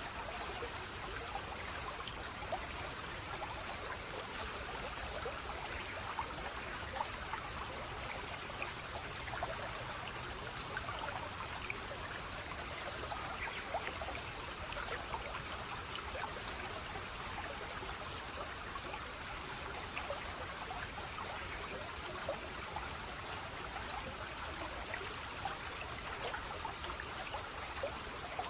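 Stream water flowing and trickling steadily, with many small splashes throughout.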